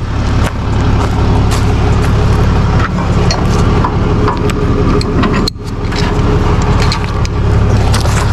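Vehicle engine running steadily, with scattered clicks and knocks over it and a brief sudden drop in level about five and a half seconds in.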